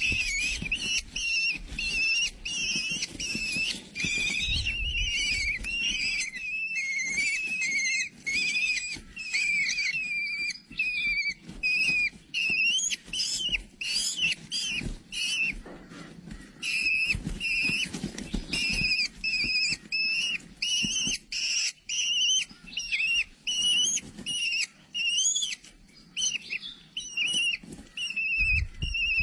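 A bird chirping over and over, short high whistled calls that bend up and down in pitch, coming several times a second without a break.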